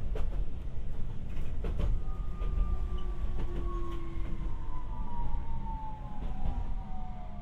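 Interior running noise of a Tokyu 300 series light-rail car: a steady low rumble of wheels and motors, with a few clicks of the wheels over the rail in the first two seconds. From about two seconds in, the traction motors' whine falls slowly and steadily in pitch as the car slows.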